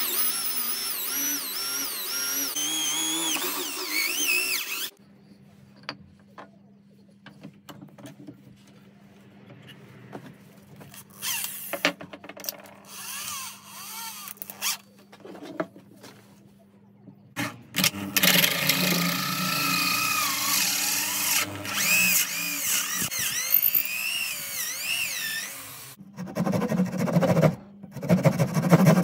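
Electric drill running in two long bursts, its whine wavering in pitch as it works under load. Between the bursts come scattered knocks and clicks of tools and parts being handled.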